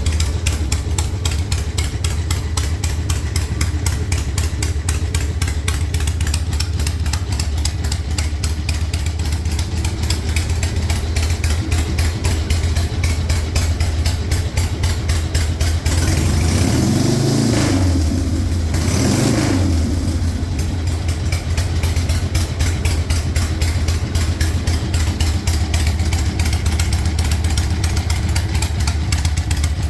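Harley-Davidson XLH Ironhead Sportster V-twin idling with an even, loping beat. The throttle is blipped twice about halfway through, so the engine rises and falls twice before settling back to idle.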